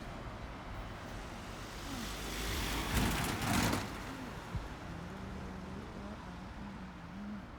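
Road traffic on a street, with a vehicle passing close about three seconds in, its tyre and engine noise swelling and fading, followed by a steady low engine hum.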